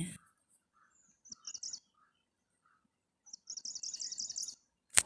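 A small bird chirping in two short runs of quick, high repeated notes, the second run longer. A single sharp click comes near the end.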